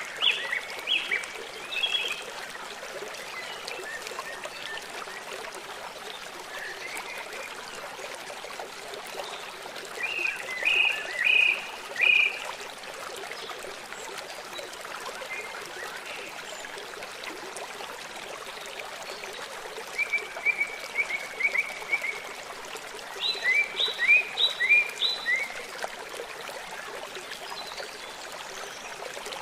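Birds singing in short phrases of quick, high notes, a few seconds apart, over a steady rush of running water.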